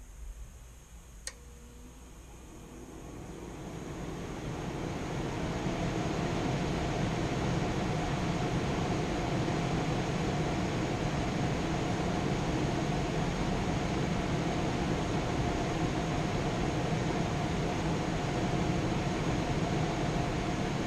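A click, then an HVAC air handler's indoor blower fan spinning up over about four seconds and running steadily with a faint hum.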